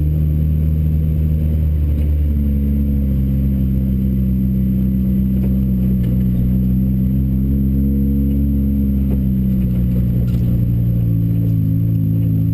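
Modified Ford Focus RS engine in a Ford Racing Puma running steadily at low revs, its pitch holding nearly level with only slight rises and falls, and a little unsteady near the end.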